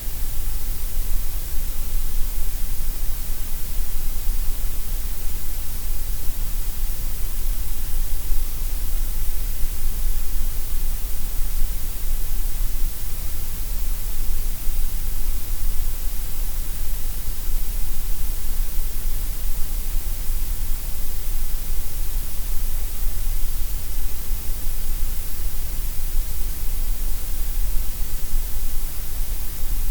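Synthesized gray noise: a steady, unchanging hiss with a strong deep rumble and bright top, thinner in the middle range.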